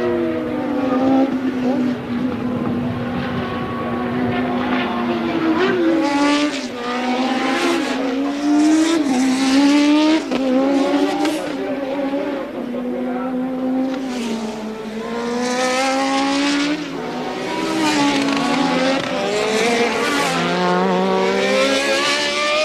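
1983 Formula One racing car engines, several at once, running at high revs, their pitch repeatedly climbing and dropping as the cars go by.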